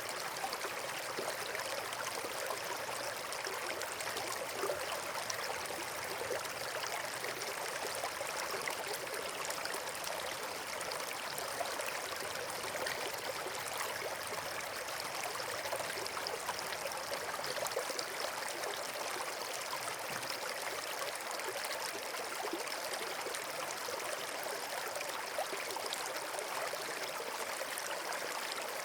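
Steady rushing of running water, like a stream, with no change in level throughout.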